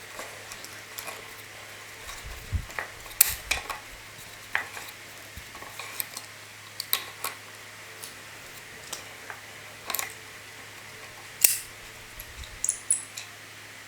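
Hand tools clicking and clinking on metal in irregular, separate strikes, a dozen or so, two of them louder, over a faint steady hum.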